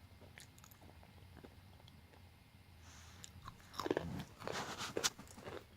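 Someone chewing crisp chocolate-flavoured banana chips with the mouth close to the microphone: soft crunches at first, then a run of louder crunching about two-thirds of the way in.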